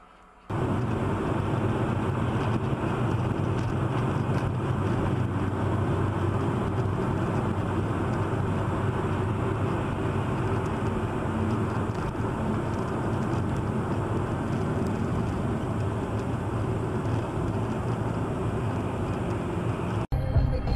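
Steady car engine and road noise from a dashcam, starting abruptly about half a second in and cutting off suddenly just before the end.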